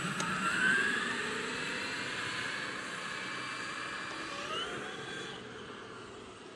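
Traxxas X-Maxx RC truck's brushless electric motor whining as the truck accelerates, the pitch rising sharply twice, about half a second in and again about four and a half seconds in, and growing fainter toward the end.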